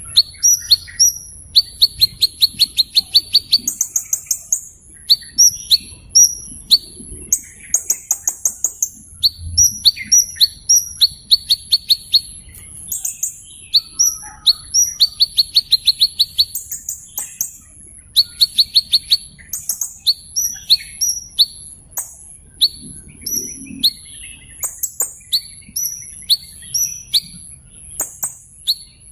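Small bird singing in repeated phrases of rapid high trills and short sliding chirps, a new phrase every second or two, over a steady thin high whine.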